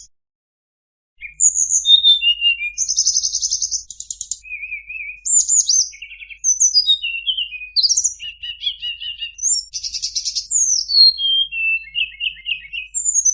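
Recorded song of a tledekan used as a lure call: after about a second of silence, a rapid string of varied high whistles, falling slurred notes, buzzy phrases and quick trills.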